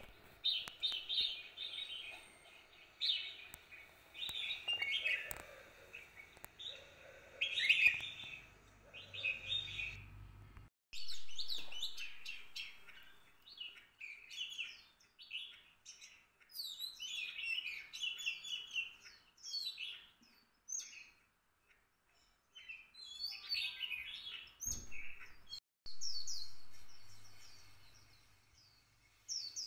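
Small songbirds chirping and twittering in quick, busy bursts, with a few abrupt breaks and a brief silence about two-thirds of the way through.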